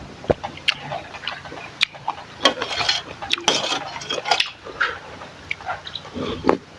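Kitchen utensils clinking and knocking against bowls and a pot, with short splashes of liquid, in an irregular run of sharp clicks.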